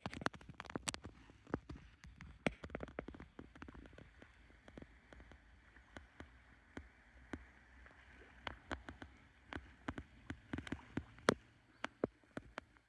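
Water splashing and dripping around a stand-up paddleboard on a lake: many irregular small splashes and drips, from the paddle and from water lapping at the board.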